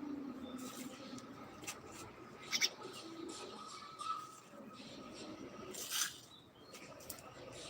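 Pet birds chirping in short, scattered calls, the sharpest about two and a half seconds in.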